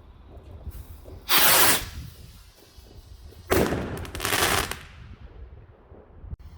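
Garden fireworks going off: two loud, hissing, crackling bursts, a short one just over a second in and a longer one about three and a half seconds in.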